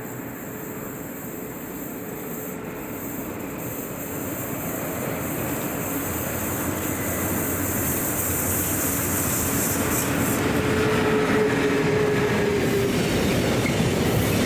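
A train approaching, its rumble of wheels on the rails growing steadily louder, with a faint steady whine in the second half.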